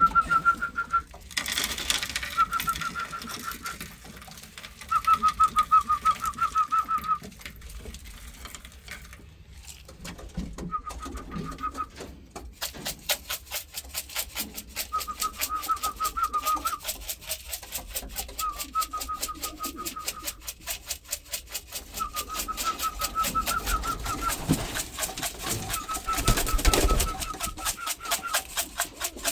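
Pigeons in a loft making short, high, fluttering calls, about eight bouts of one to two seconds each. From about twelve seconds in, a fast, even run of light clicks sounds under them.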